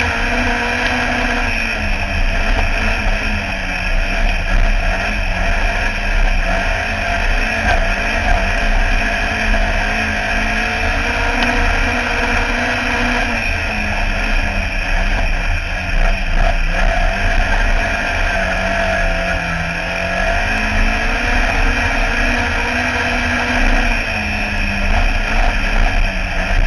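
Autograss race car's engine running hard and loud, heard from inside the cockpit. Its pitch rises and falls with the throttle, dipping for a moment about twenty seconds in before climbing again.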